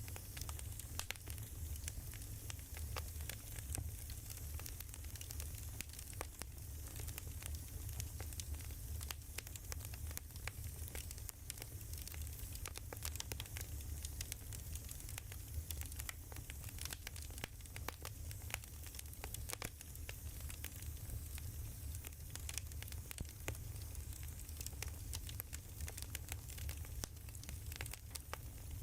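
Wood fire crackling, with many small sharp pops and snaps over a soft hiss and a low rumble.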